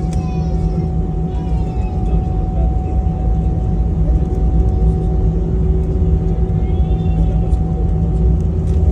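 Airliner cabin noise after landing: a steady low rumble with a constant whine from the engines, and faint voices of passengers in the background.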